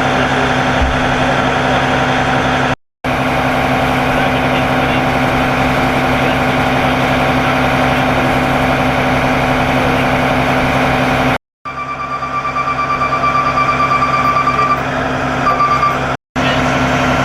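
Fire ladder truck's diesel engine idling steadily. For a few seconds near the end a high, steady electronic beeping tone sounds over it, and the sound cuts out briefly three times.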